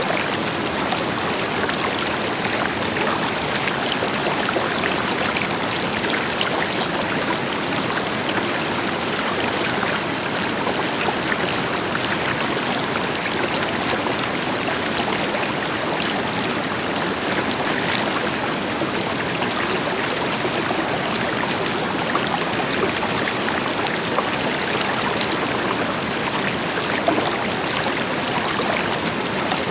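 River water flowing steadily over rocks, an even rushing with small splashes and trickles, with a waterfall's deeper rush blended in behind it.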